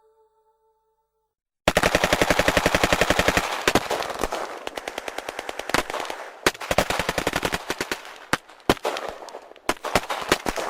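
Automatic machine-gun fire: a long rapid burst starting about two seconds in, then shorter bursts mixed with single shots.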